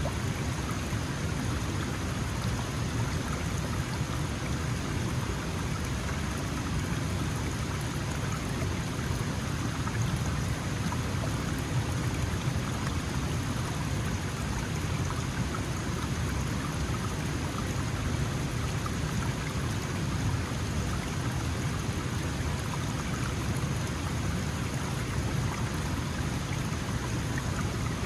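Small mountain stream flowing steadily, a continuous rush and babble of water over stones.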